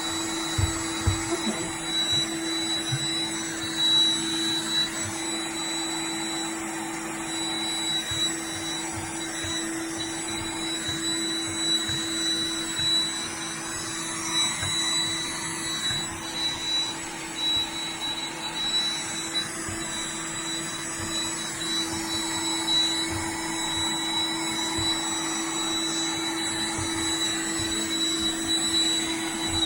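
iRobot Roomba 985 robot vacuum running steadily, its motor giving a constant low hum and a thin high whine, as it sits caught on a throw-rug corner that its own suction has lifted. A few low knocks come in the first three seconds.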